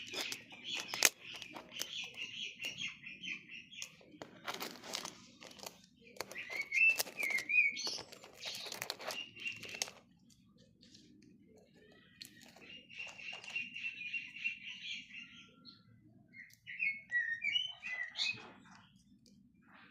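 Pet raven making quiet, rapid chattering calls in several runs, some gliding up and down, with sharp clicks or knocks among them.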